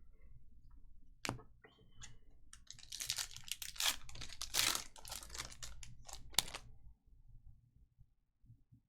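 Trading cards handled on a table: a sharp tap about a second in, then a few seconds of rustling, flicking and clicking as cards and wrappers are shuffled, ending in two sharp clicks.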